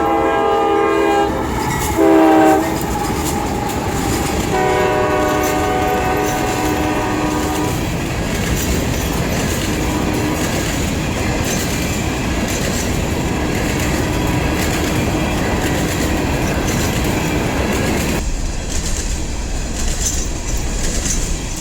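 A CSX freight locomotive horn sounds a multi-note chord: a long blast that ends about a second in, a short loud blast at about two seconds, then another long blast from about four and a half to eight seconds. This long–short–long pattern is typical of a grade-crossing signal. The freight train then rolls past with a steady rumble and wheels clicking over the rail joints.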